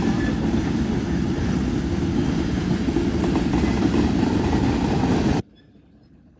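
Passing train rumbling steadily, then cut off abruptly about five seconds in, leaving only faint background.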